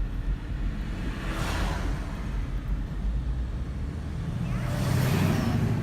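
Road traffic: two vehicles pass, one about a second and a half in and another near the end, over a steady low rumble.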